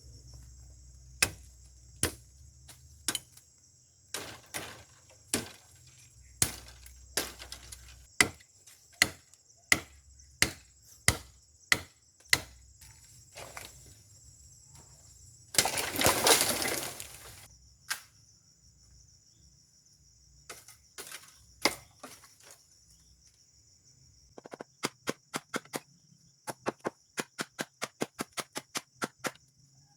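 Bamboo being chopped with a blade: loud sharp strikes at about one a second, then a rush of noise lasting about two seconds, then a faster run of lighter strikes near the end. Insects drone steadily behind them.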